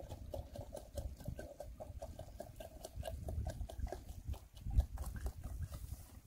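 Oak-wood campfire crackling, with many quick sharp pops and snaps.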